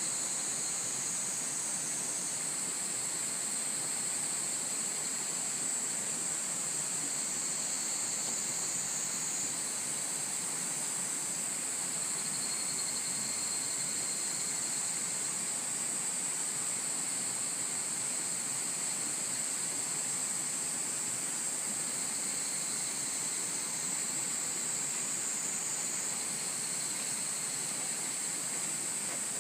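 Cicadas calling in a dense chorus: a steady, high-pitched drone with no breaks, its pitch shifting slightly now and then.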